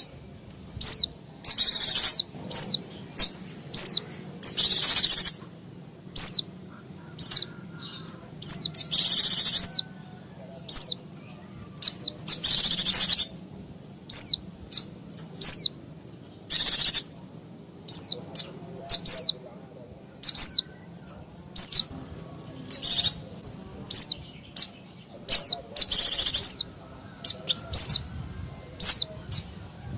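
White-eye (pleci) giving noisy lure calls: sharp, high, falling notes about once a second, broken every few seconds by short bursts of rapid chatter.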